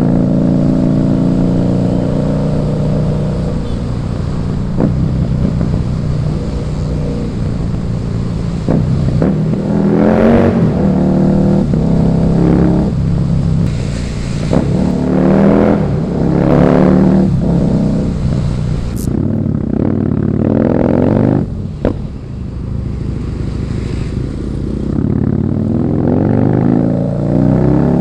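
Husqvarna Nuda 900R's parallel-twin engine under hard acceleration, its pitch climbing in several rising runs, each broken off by a gear change, with lower steadier running and easing off between them.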